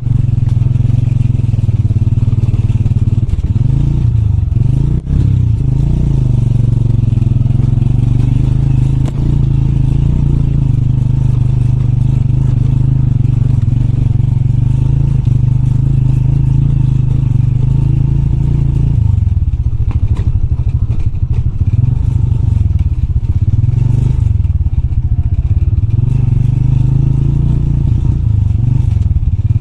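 Motorbike engine running under way, steady for a stretch and then dropping and picking up again in pitch several times as the throttle is eased and reopened. Clatter from the bike going over a rough track comes with it.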